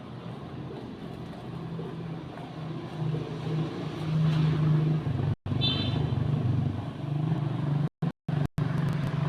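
A motor vehicle's engine running, growing louder from about a second and a half in. The sound cuts out briefly several times.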